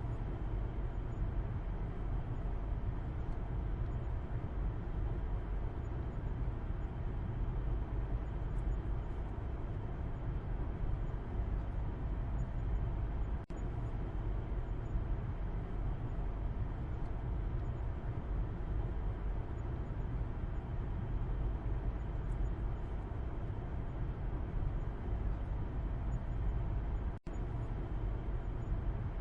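Steady low road and engine rumble heard from the back seat inside a moving car's cabin. The sound cuts out for an instant twice, about halfway through and near the end.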